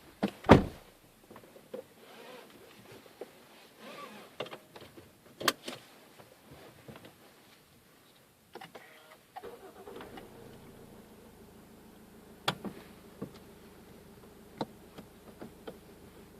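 A loud thump near the start, then clicks and rustling; about nine seconds in, the RAV4's 2.0-litre inline-four turbo-diesel is cranked and starts, settling into a steady idle with occasional clicks.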